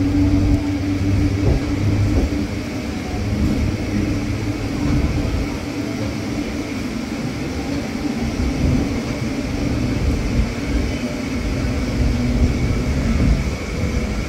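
Electric suburban local train running at speed, heard from inside the coach: a steady rumble of wheels on rail with a faint motor hum.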